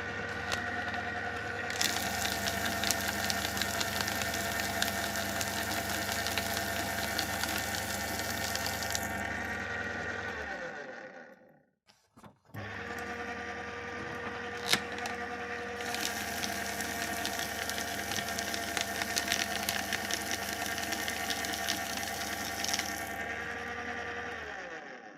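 Electric paper shredder run twice. Each time the motor starts with a steady hum, then a loud crunching rasp of cutting lasts about seven seconds, and the motor runs on briefly and winds down to a stop. The two runs are about a second apart.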